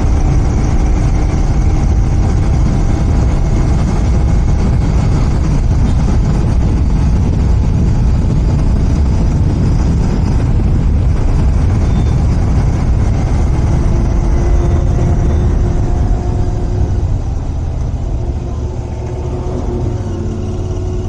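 Royal Enfield Continental GT 650's parallel-twin engine running through its stock exhaust while riding, with wind and road noise. From about three-quarters of the way through it eases off and gets quieter.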